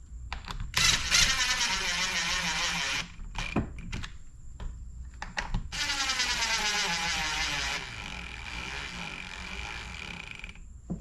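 Cordless drill-driver with a Torx bit running screws into a chainsaw's housing: two runs of about two seconds each with the motor pitch shifting under load, and a few clicks between. Near the end there is a quieter stretch of running.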